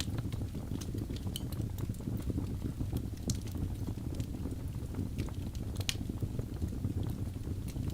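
Birch logs burning in a fireplace: a steady low rumble of flames with frequent small crackles and a few sharper pops.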